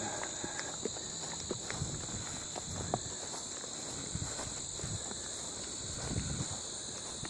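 Footsteps on a woodland trail with soft irregular thumps and light clicks, over a steady, high-pitched insect chorus.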